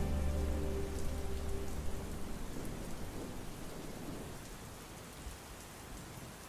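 Steady rain falling, with a low rumble of distant thunder about three seconds in; the last held notes of music fade out in the first two seconds, and the whole sound slowly gets quieter.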